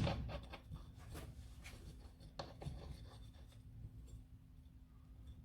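Faint scraping and a few light clicks of metal parts and a bolt being handled and fitted together by hand, mostly in the first couple of seconds, over a faint steady hum.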